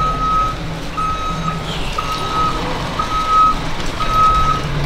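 A vehicle's reversing alarm beeping steadily, one single-pitched beep about every second, with the low sound of an engine running beneath it.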